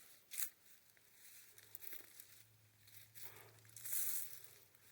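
Faint rustling and crinkling in a few short bursts, the loudest about four seconds in.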